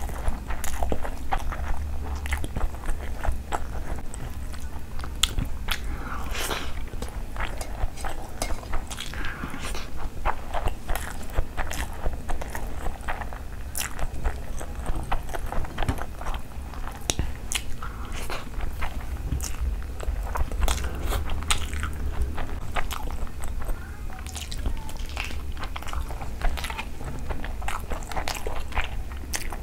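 Close-up chewing and crunching of crispy fried chicken pakoda eaten by hand, with many sharp crackles and wet mouth sounds, over a steady low rumble.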